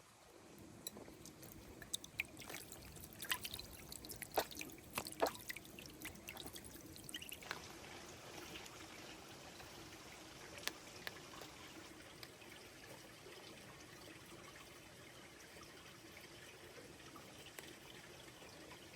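Faint trickling water, with scattered small clicks during the first several seconds.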